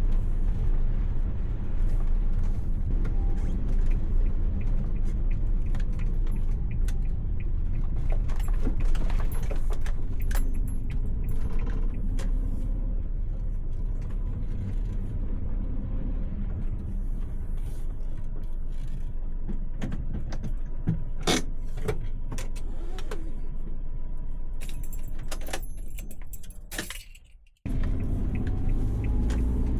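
Low, steady engine and road rumble of a Suzuki Every kei van being driven, with scattered small rattles and jingles. Near the end the sound fades away and then cuts back in suddenly.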